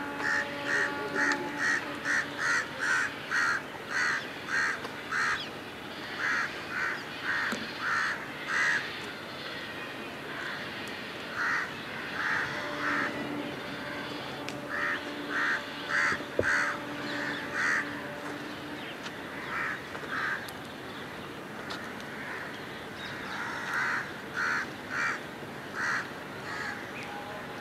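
A bird calling in runs of short, evenly spaced calls, about two or three a second, in several bouts separated by short pauses.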